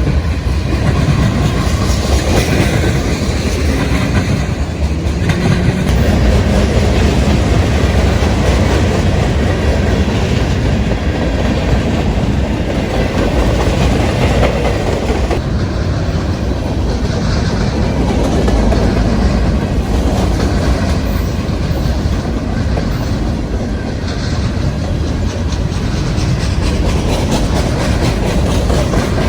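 Norfolk Southern freight train's cars rolling past, a steady rumble and clatter of steel wheels over the rails.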